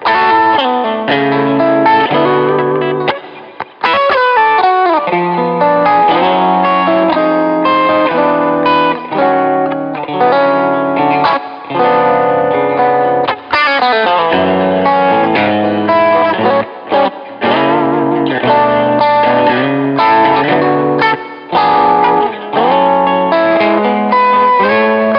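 Paul Reed Smith Modern Eagle III electric guitar played lead through an amp, with some distortion and effects. Sustained notes are bent and held with vibrato, and there is a brief break about three and a half seconds in.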